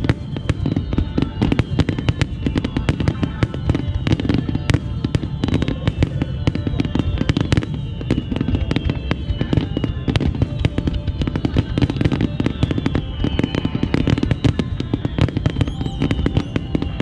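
Starmine fireworks barrage: a dense, continuous volley of booms and bangs with no break. High tones slide slowly down in pitch throughout.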